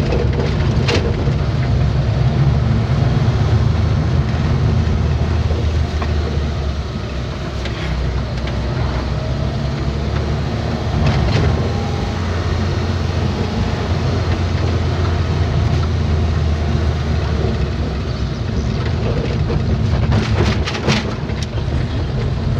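Vehicle engine running steadily with road noise while driving, a continuous low drone with a few brief knocks.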